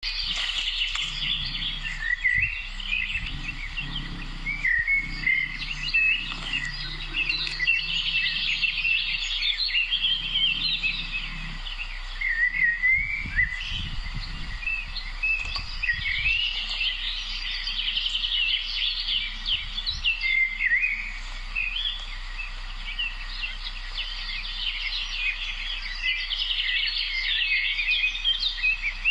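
A chorus of many songbirds chirping and singing at once, dense overlapping trills and tweets with no break.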